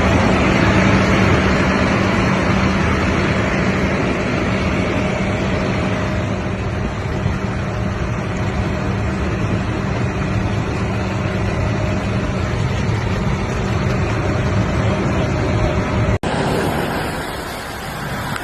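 Steady rush of water with a vehicle engine running under it. About sixteen seconds in, the sound cuts abruptly to another recording of a similar rush.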